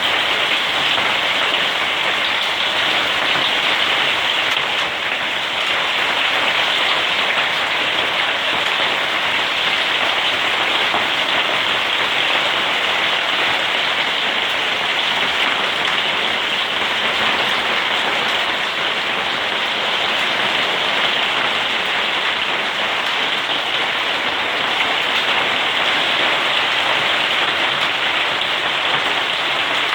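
Hailstones falling thickly and striking surfaces in a dense, steady hiss that holds level throughout.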